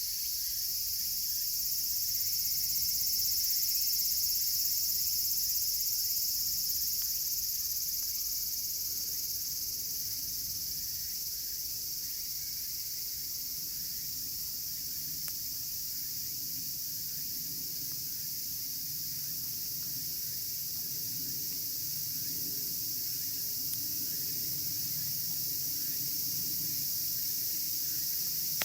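A dense, unbroken chorus of cicadas shrilling (semishigure), among them higurashi, with faint scattered crackles from a wood campfire.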